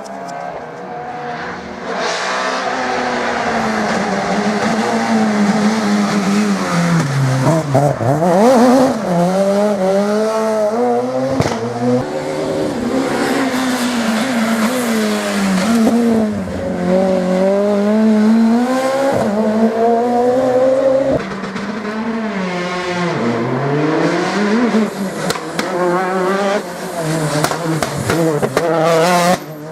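Rally car engine driven hard, its revs climbing and falling again and again with gear changes and lifts, over tyre noise.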